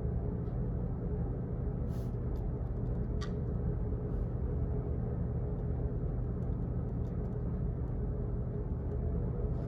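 Office ambience: a steady low rumbling hum, like building ventilation, with a few faint, irregularly spaced clicks over it.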